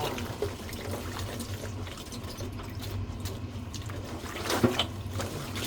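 Water sloshing and splashing in a basin as garlic scapes are washed and pressed down by hand, with a single knock about three-quarters of the way through.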